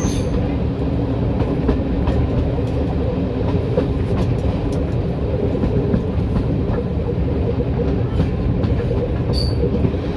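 Diesel-hauled train running along the track: a steady low rumble with occasional clicks from the wheels, and a brief high squeak about nine seconds in.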